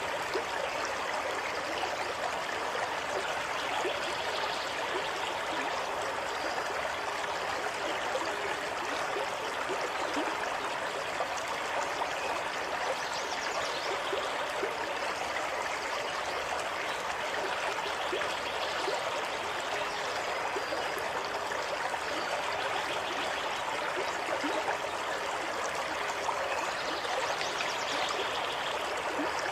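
A small stream running steadily, water trickling and splashing over rocks.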